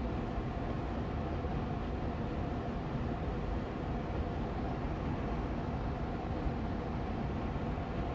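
Austin Air Allergy Machine air purifier fan running steadily on medium speed: an even rushing hum of moving air with a faint steady tone in it.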